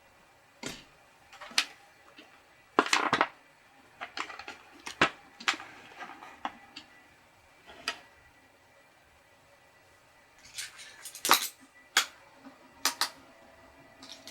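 Irregular clicks and clatter of a small model locomotive's metal and plastic parts being handled on a workbench, with louder knocks about three seconds in and again near eleven seconds.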